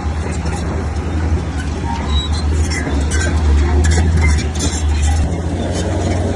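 Heavy earthmoving machine's diesel engine running steadily under load, with scattered metallic clinks and clanks over the low drone.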